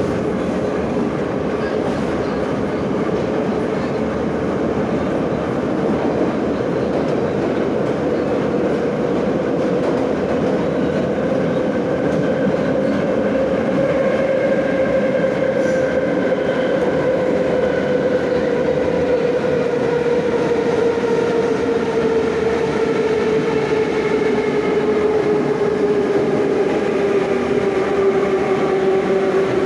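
Moscow Metro 'Nomernoy' (81-717/714) subway train running through the tunnel, heard from inside the car: a steady loud running rumble with a whine that slowly falls in pitch over the second half.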